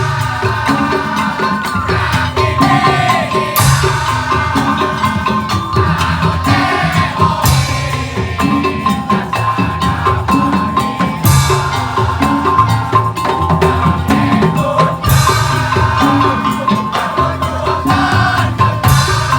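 Madurese tong-tong (ul daul) percussion music: drums and wooden and mallet percussion keep a busy rhythm under a held melody note, with a bright crash about every four seconds.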